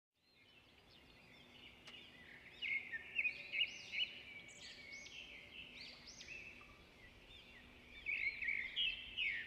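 Small birds chirping: a quick, irregular string of short, high chirps, busiest about three seconds in and again near the end.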